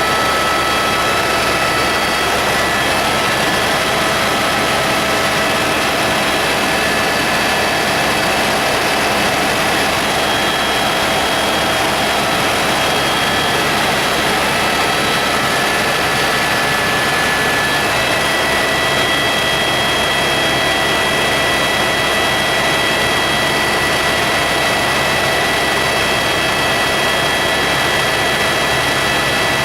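Helicopter in flight: steady, loud engine and rotor noise with several high whining tones, which shift slightly about two-thirds of the way through.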